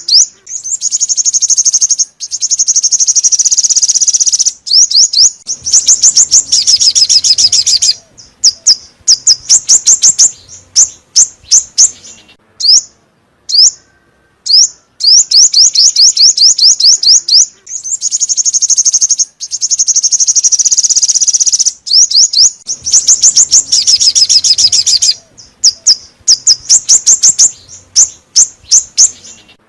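A recording of a songbird's song played as a lure call: fast runs of high, sharp notes and rattling trills, broken by short pauses. The same sequence repeats about every 17 seconds, as in a looped track.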